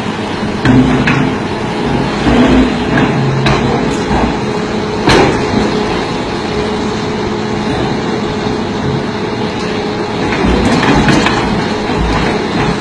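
Heavy machinery engine running steadily while big rocks on a truck are crushed, with irregular knocks of rock striking rock and metal. The sharpest and loudest knock comes about five seconds in.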